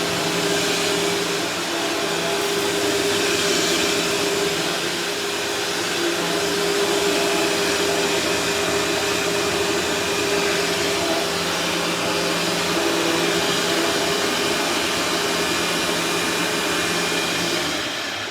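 Dirt Devil Vision self-propelled upright vacuum cleaner running steadily with a whirring motor hum, then cutting off near the end.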